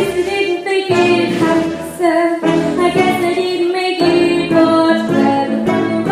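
Music with a female voice singing.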